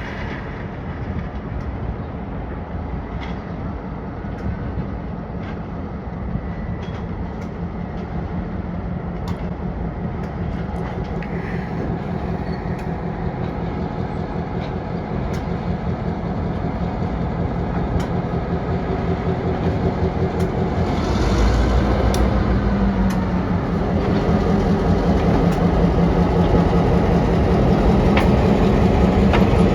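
Diesel switching locomotive running close by, its engine steady and gradually getting louder, with scattered clicks from the wheels and cars. About 21 seconds in it throttles up and the deep engine rumble jumps louder.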